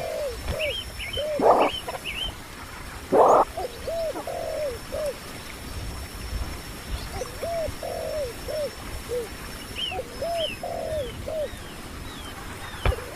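A dove cooing in repeated phrases of three or four short arched notes, with high thin chirps from another bird above it. Two short rushing noises come in the first few seconds.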